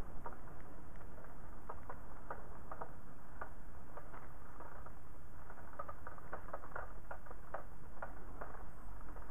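Steady rain with raindrops ticking irregularly, several a second, against the window glass, over a low rush of wind.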